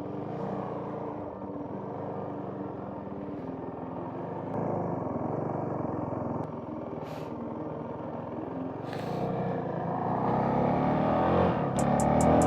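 Honda CRF 450RL's single-cylinder four-stroke engine running under way, with wind noise on the helmet-mounted mic. The engine gets louder and rises in pitch near the end as the bike accelerates.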